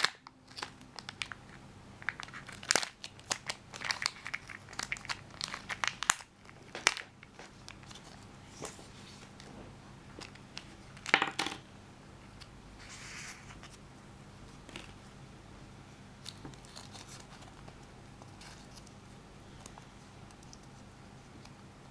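Kinder Joy packaging being crinkled and torn open by hand. Dense sharp crinkling runs through the first seven seconds, another loud burst comes about eleven seconds in, and then there is fainter handling.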